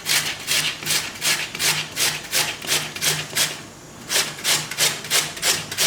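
Raw peeled potato being grated on the large holes of a grater stand: even rasping strokes about three a second, with a short pause a little past halfway before the strokes resume.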